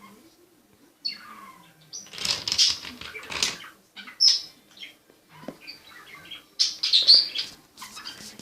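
A pet parrot flapping its wings in irregular bursts, with a few short squawks.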